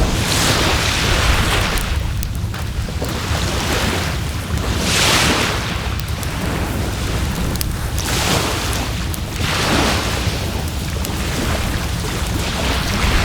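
Waves washing up on the shore in three swells a few seconds apart, the loudest about five seconds in, over a steady low wind rumble on the microphone. A few sharp ticks of a campfire crackling come through.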